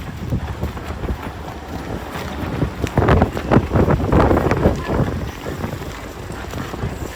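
Snowstorm wind gusting against the microphone: an uneven low rumble that swells from about three to five seconds in.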